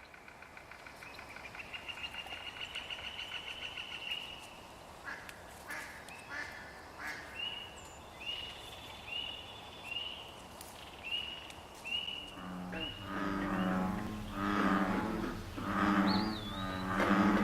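Frogs calling: a fast high trill building over the first four seconds, then short high rising peeps repeated about every half second, then from about twelve seconds in, deep low calls of bullfrogs.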